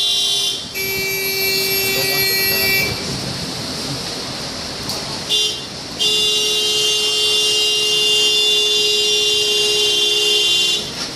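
A horn sounding in long, steady blasts: one lasting about two seconds, a short toot around five seconds in, then one held for about five seconds. Steady wind noise runs underneath.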